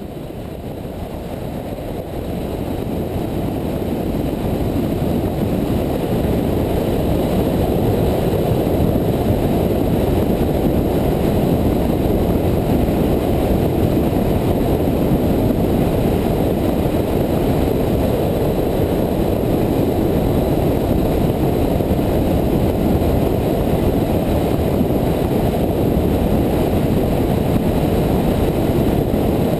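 Motorcycle ridden at steady speed, heard from an onboard camera: a dense low rush of wind over the microphone with the engine underneath. It swells up over the first few seconds, then holds steady.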